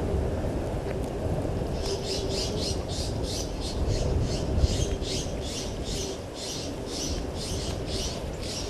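A bird calling over and over in short, evenly repeated notes, about three a second, starting about two seconds in, over a steady low rumble.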